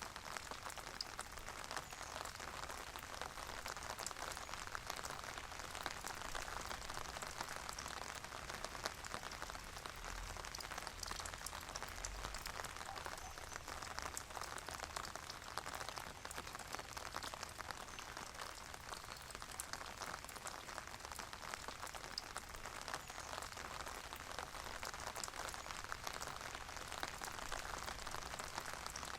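Steady, calm rain falling: an even hiss made of many fine, close-set drop ticks, with no let-up.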